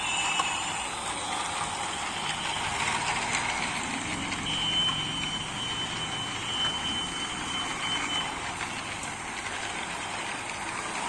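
Two battery-powered toy trains pulling carriages around a plastic track: a steady whir of small motors and wheels running on the track, with a thin high whine for a few seconds in the middle.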